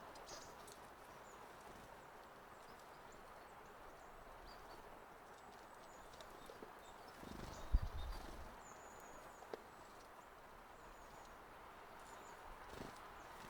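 Faint steady outdoor background noise with a few faint high bird chirps. A short cluster of low thumps comes a little past the middle, followed by a single sharp knock and one more soft thud near the end.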